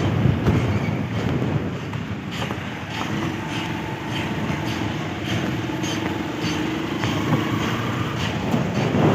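Train running on the rails: a steady rumble with faint repeated clicks, and a steady hum that joins about three seconds in and fades near the end.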